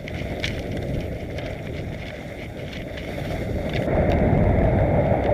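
Mountain bike descending a rough trail: a rumble of tyres and wind on the microphone, with scattered rattling clicks. It grows louder about four seconds in as the bike speeds up.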